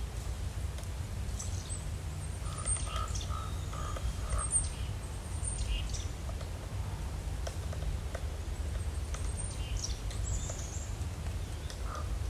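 Small birds calling outdoors: scattered short, high chirps, with a brief run of lower repeated notes a few seconds in, over a steady low rumble.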